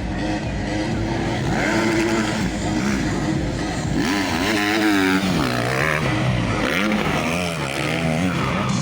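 Motocross motorcycle engines revving, their pitch rising and falling repeatedly as the throttle is worked.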